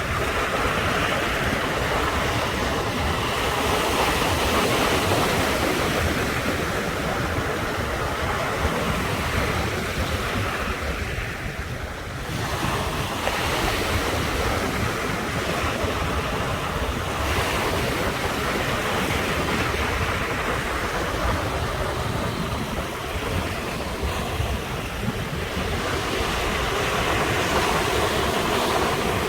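Sea waves breaking and washing on the shore in a continuous surf that swells and eases, briefly dropping about twelve seconds in. Wind buffets the microphone, adding a low rumble underneath.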